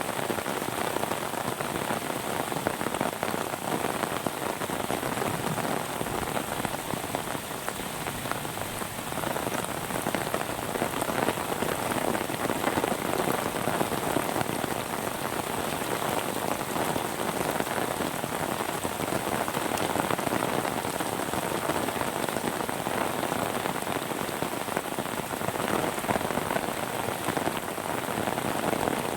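Steady rain falling, a dense even patter of many drops striking surfaces.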